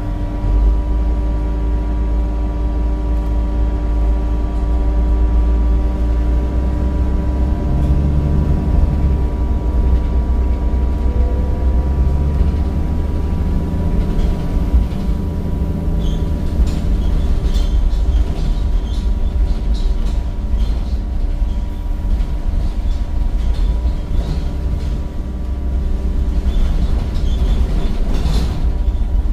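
Cummins diesel engine and ZF automatic gearbox of a Temsa Avenue single-decker bus running steadily under way: a deep rumble with a steady drivetrain whine. Light rattles and clicks join from about halfway through.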